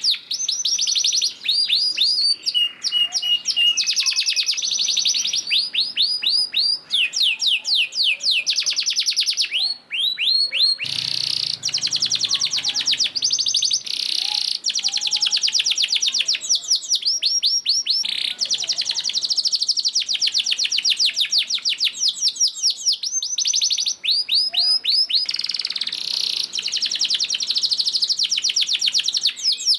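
Domestic canary singing a continuous song of long, rapid trills, one fast-repeated note run after another with barely a pause, with a few held whistled notes among them.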